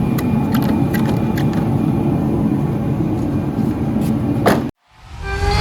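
Steady low rumbling noise with a few scattered clicks and knocks, which cuts off abruptly near the end. Guitar music then fades in.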